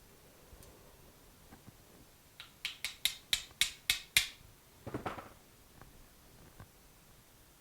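A quick run of about eight sharp metallic clicks, roughly four a second, then a short scrape and a few light knocks. Small metal parts of a scooter starter motor are being handled and tightened by hand.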